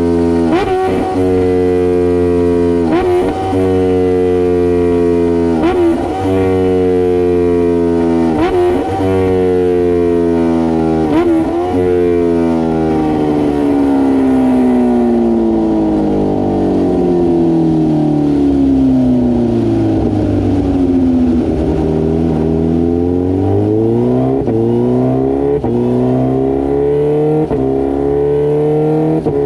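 Kawasaki H2R's supercharged inline-four engine running hard on a dynamometer. Its pitch falls slowly for about twelve seconds, with a sharp crack about every three seconds. The pitch then sags lower and climbs again near the end.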